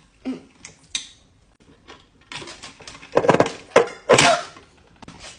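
Pencil sharpener machine working on a thick pencil. A few clicks and knocks, then about two seconds of uneven grinding strokes, with two louder pulses.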